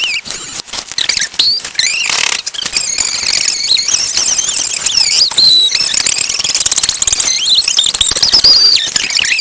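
Shrill, squealing voice noises pitched up to a chipmunk-like squeak, sliding rapidly up and down in pitch. Loud throughout.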